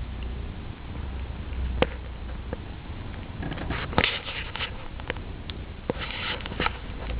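A cat suckling on its own fur, making sharp sucking clicks every second or so, with two short sniffing, snuffling bursts in between.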